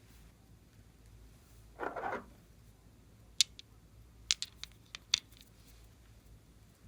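Glossy slime being worked by hand: a brief squish about two seconds in, then a scattered run of sharp little clicks and pops.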